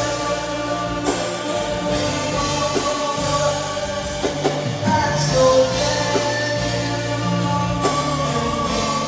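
Live pop ballad performed in an arena: singing held on long notes over a full band with drums.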